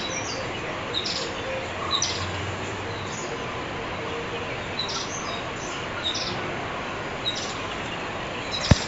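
Thick-billed flowerpecker calling: short, sharp high notes given singly at irregular intervals, about one every second or two, over a steady background hiss. A sharp click sounds near the end.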